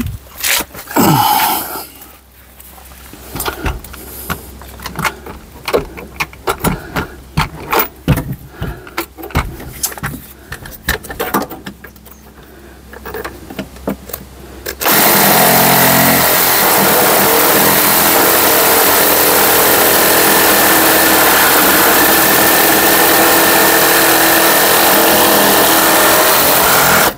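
Scattered clicks and knocks of tools and parts being handled. About fifteen seconds in, a reciprocating saw starts abruptly and runs steadily and loudly, cutting off the brake light switch's mounting screws, then cuts off suddenly at the end.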